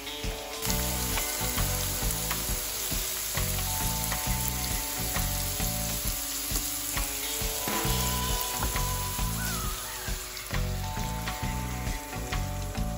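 Carrot strips and diced onion sizzling as they fry in hot oil in a pan, a steady hiss that comes up just under a second in.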